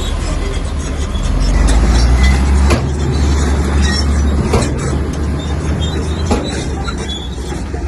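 Komatsu crawler bulldozer's diesel engine working under load, louder for a couple of seconds about a second in, with its steel tracks squealing and clanking and a few sharp knocks.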